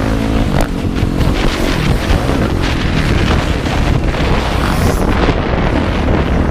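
Motocross motorcycle engine running on the track, with heavy wind noise buffeting the onboard camera's microphone.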